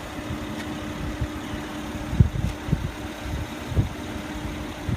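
Mercedes-Benz GLE 350 SUV's engine idling: a steady hum with uneven low rumbling underneath.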